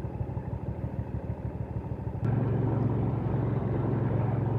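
Hyosung GV650's V-twin engine ticking over, then the throttle opens sharply about halfway through and the engine holds a louder, steady note as the motorcycle pulls away.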